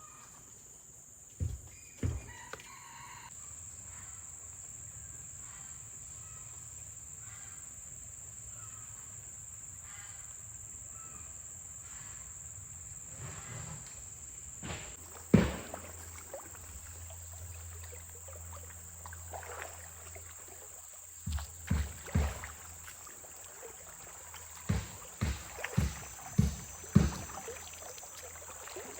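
A steady high-pitched drone of forest insects, broken by a series of knocks and thumps: two short ones near the start, a loud one about halfway through, and a quick run of them near the end.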